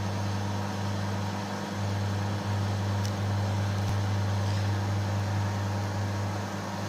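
Daewoo 700-watt microwave oven running: a steady low hum with fan noise, not very loud.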